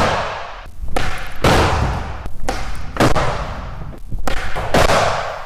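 Skateboard hitting concrete: several hard board slams and clatters, each followed by a rush of wheel and deck noise, as tricks are tried and missed.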